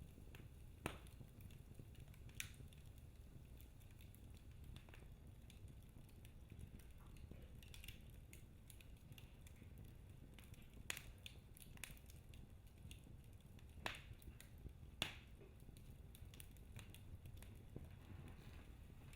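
Wood fire in a fireplace burning quietly: a low steady rumble with a handful of sharp, scattered pops and crackles from the logs.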